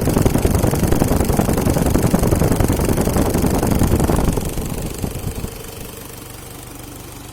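Toyota 1KZ-TE four-cylinder turbodiesel running on a test stand. It is loud for the first four seconds or so, then drops over a second or so to a steady, quieter idle.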